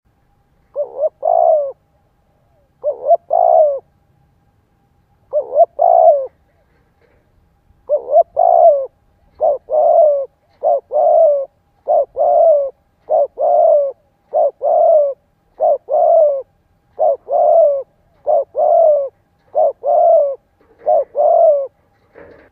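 Spotted dove cooing in short, loud, repeated phrases. The first few are a couple of seconds apart, then they come about once a second from around eight seconds in. This is the fast excited cooing (thúc gù) that keepers use to provoke and lure wild male doves.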